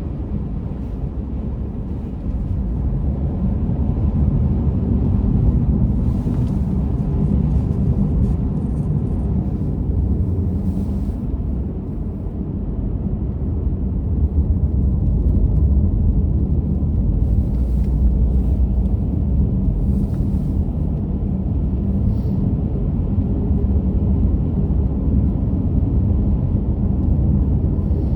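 Car driving at steady speed, heard from inside the cabin: a continuous low rumble of engine and road noise.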